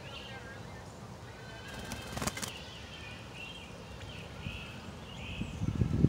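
Faint, short, high bird chirps repeating every half second or so around the cardinal nest, with a brief crackling rustle about two seconds in and a few low thumps near the end.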